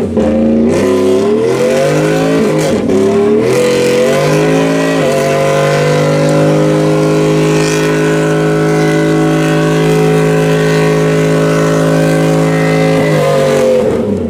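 A vehicle engine revving hard: several rising pulls in the first few seconds, then held steady at high revs for about eight seconds, dropping off near the end.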